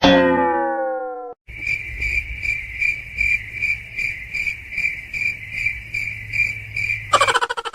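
A cricket chirping in a steady pulsing rhythm, two to three chirps a second, breaking into a fast run of ticks near the end. Just before it comes a short pitched tone with overtones that slides slightly down and fades, then stops abruptly.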